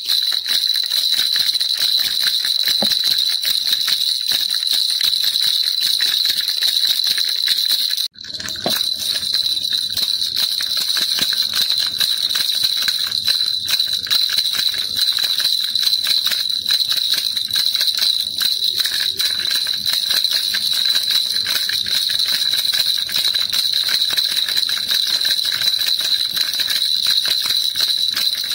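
Baby rattle shaken without pause, a fast, dense jingling rattle, with a brief break about eight seconds in.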